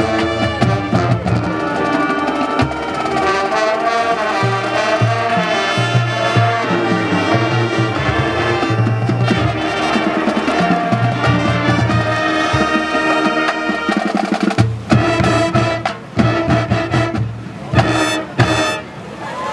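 Live brass-led band music with a steady bass line; near the end it breaks into a few short, accented hits with brief gaps between them.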